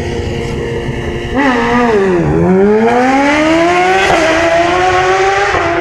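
A drag-racing engine accelerating hard. A steady engine note jumps louder about a second and a half in, dips briefly in pitch, then climbs steadily, with a short hitch in the rising pitch about four seconds in.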